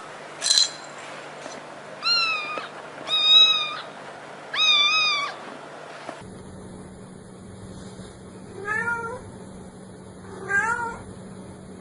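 Cat meowing: three high-pitched meows in quick succession. After a change in the background at about six seconds come two shorter, lower meows.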